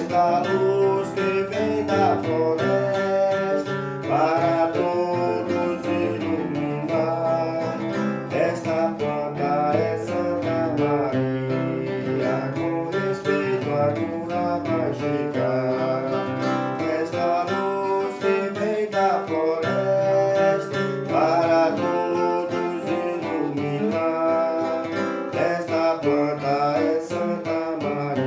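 Acoustic guitar strumming under a sung hymn melody, a devotional hymn in Portuguese.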